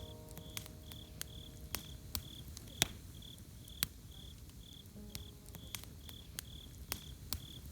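Campfire crackling with sharp, irregular pops, the loudest near the middle, over a cricket chirping steadily at about two high chirps a second. A soft sustained music chord fades out in the first second, and a faint note sounds about five seconds in.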